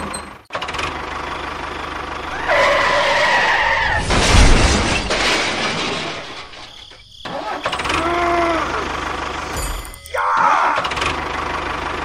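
A tractor engine running steadily, with sudden cuts about half a second in and again near 7 and 10 seconds. Short wavering pitched sounds lie over it three times.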